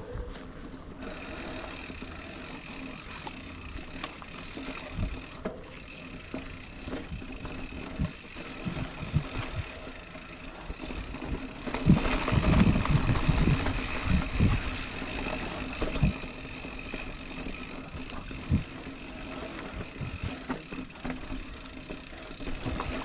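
Specialized Chisel hardtail mountain bike rolling along a dirt trail: steady tyre and drivetrain noise with rattles and knocks over bumps. A rougher, louder stretch of thumps comes about halfway through.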